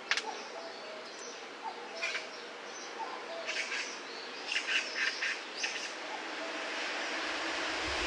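Wild birds chirping in short scattered bursts over a steady background hiss, with a lower note repeated about once a second. Near the end a rising rush of noise with a low rumble comes in.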